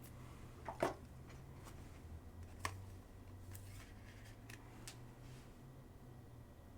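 Trading cards being handled between pulls: a few faint clicks and rustles, the loudest about a second in, over a steady low hum.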